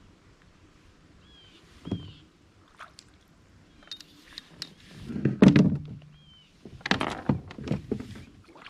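Scattered knocks, thumps and rattles of fishing gear being handled against a plastic kayak hull, loudest about halfway through, with a few faint high chirps.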